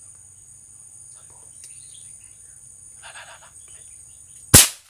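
A steady high insect drone with faint bird chirps, then about four and a half seconds in a single sharp, loud crack from an air rifle shot, after which the sound cuts out.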